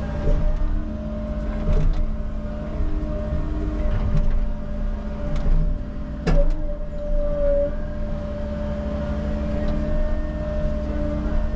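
Engine of a tracked construction machine running steadily under work, with several sharp metal clanks and knocks; the loudest comes about six seconds in.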